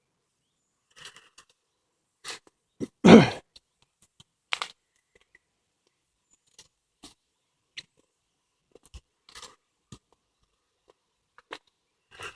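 Footsteps crunching on a woodland path: short, irregular crunches and snaps, the loudest and heaviest about three seconds in.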